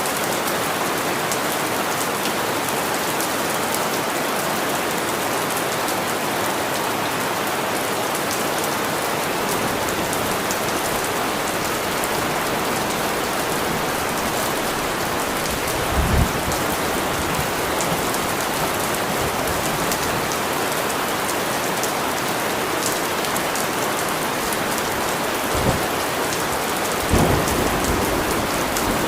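Steady, heavy rain falling, an even hiss of many drops. A few brief low rumbles rise out of it about halfway through and twice near the end.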